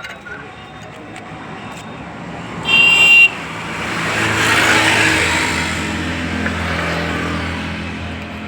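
A vehicle horn honks once, briefly, about three seconds in. Then a motor vehicle's engine and road noise swell and slowly fade as it goes by, over a steady engine hum.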